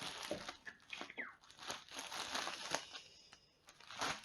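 Packaging of firecracker-string packs crinkling and rustling as they are handled and turned over, in irregular crackly bursts with a brief squeak about a second in.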